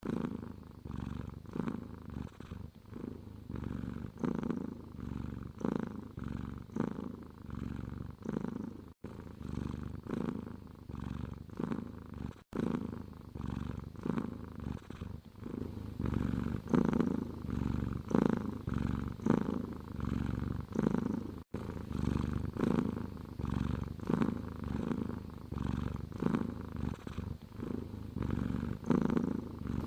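Domestic cat purring close up: a steady low rumble that swells and eases in an even rhythm with its breaths. It cuts out for an instant three times.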